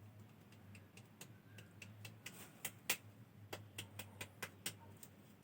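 A run of about a dozen light, irregular clicks and taps, the loudest about three seconds in, over a faint steady low hum.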